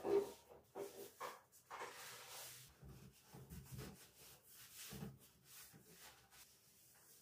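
Faint, irregular rubbing and scraping strokes by hand, with a few light knocks, typical of scrubbing or wiping a surface.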